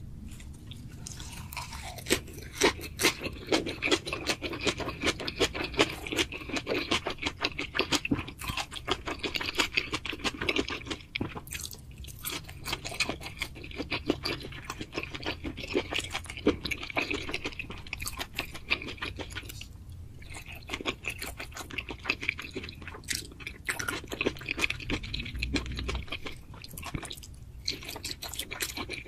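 Mukbang-style eating sounds: steady chewing with many sharp crunches and clicks, pausing briefly a few times.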